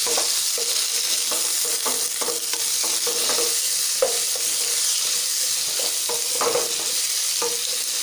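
Vegetables frying in mustard oil in a metal kadai, sizzling steadily, while a spatula stirs them in repeated scraping strokes against the pan, each with a short metallic ring.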